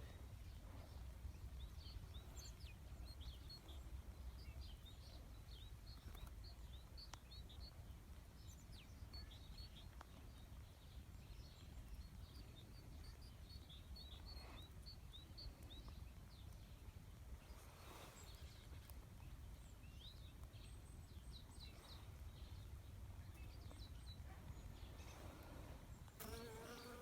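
Faint buzzing of a few honeybees flying out of the hive on a cleansing flight, with many short, high chirps of tits scattered through it.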